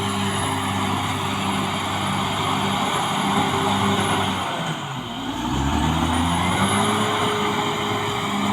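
CAT D6R XL bulldozer's diesel engine running steadily under load, with a thin high whine over it. About five seconds in, the engine sound dips and drops in pitch, then climbs back up.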